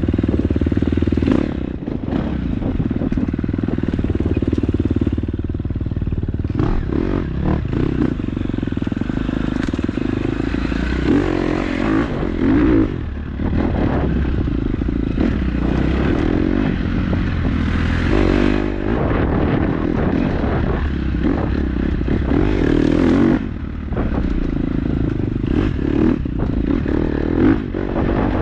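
KTM 250 dirt bike engine running under constantly changing throttle on a trail ride, easing off briefly a few times, with clattering and scraping knocks from the bike over rough ground.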